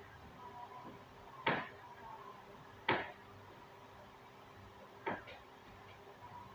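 Three sharp knocks, the first two about a second and a half apart and the third about two seconds later, over a faint steady hum.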